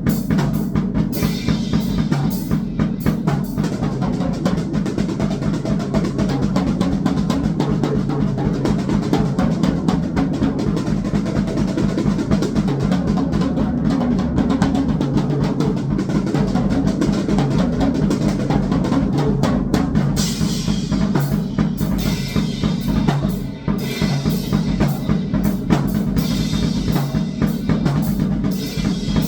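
Drum kit played in a fast, dense, unbroken pattern of bass drum and snare strokes. Cymbal wash joins in at about two-thirds of the way through, drops out briefly, and returns near the end.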